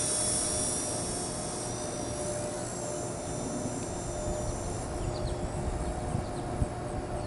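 Blade mCP X micro RC helicopter in flight: the high-pitched whine of its small electric motors and rotor, falling a little in pitch at first and then holding steady while fading slowly. Wind rumbles on the microphone underneath.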